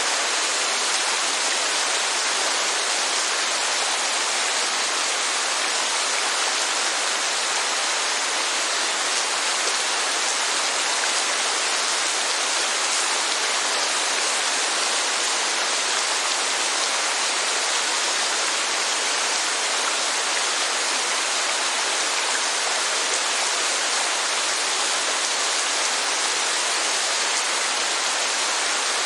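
Steady rainfall: an even, constant hiss with no single drops standing out and little low rumble.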